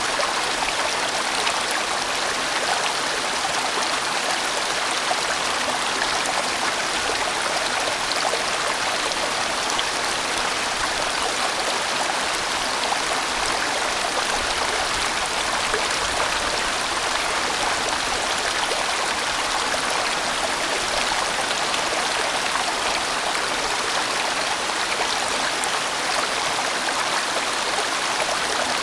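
A sizeable mountain stream rushing and bending over rocks, a steady full flow of water.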